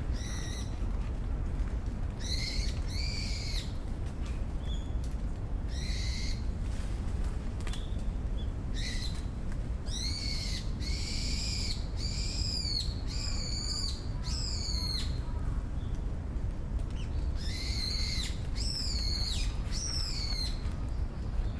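A bird calling again and again: short, harsh calls of about half a second each, some in quick runs and others several seconds apart, over a steady low background rumble.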